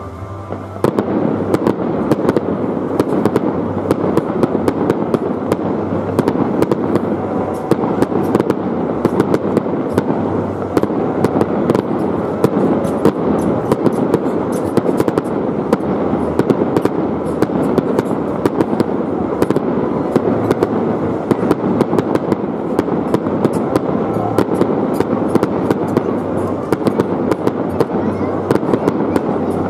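Fireworks display: aerial shells bursting in a rapid, continuous barrage of bangs and crackling, which starts about a second in.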